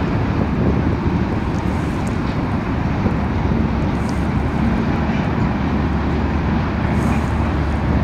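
CSX diesel freight locomotives hauling a coal train past, a steady low rumble of engines and rolling wheels.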